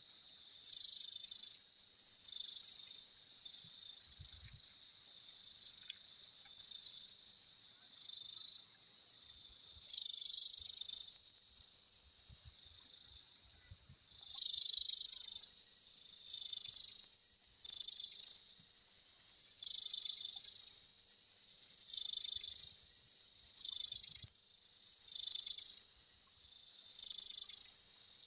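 Chorus of insects making a continuous high-pitched trilling buzz, which in the second half swells and fades in a regular pulse a little over once a second.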